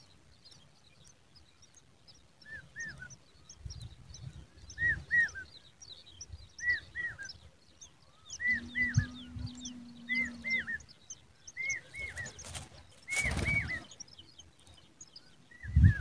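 Birds calling: short arched chirps in pairs, repeated about once a second, over many fainter, higher twittering notes. A low steady hum lasts about two seconds past the middle, and a short rush of noise comes near the end.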